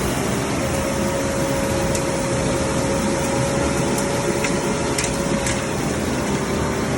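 Jetter/vacuum truck running at work: a steady rushing noise with a constant whine over it.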